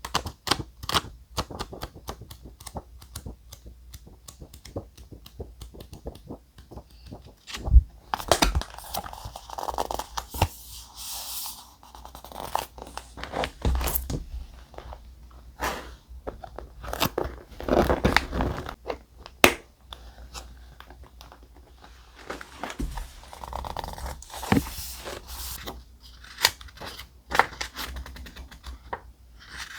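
Thick paper and stickers being handled close up: crinkling, tearing and rustling, with many small sharp taps and clicks and a few longer swishes of paper.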